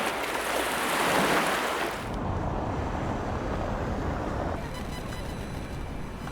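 Surf: a wave rushes in loudly for about two seconds, then settles into a lower, steady rumble of water.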